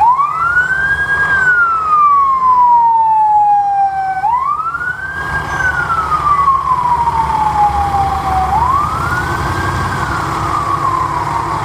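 Fire rescue truck's siren wailing in three cycles, each rising quickly and then falling slowly in pitch, over the low steady sound of the truck's engine.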